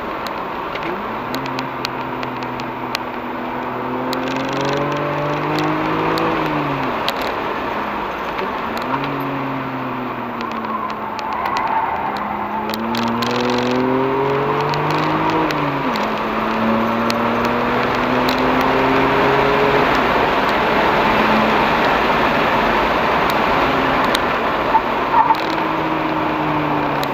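BMW 335i's N54 twin-turbo inline-six, heard from inside the cabin, pulls hard several times with its note rising in pitch. Each pull ends with a drop at a gear change or a lift. Steady wind and tyre noise run underneath, and between about twenty and twenty-five seconds they are most of what is heard.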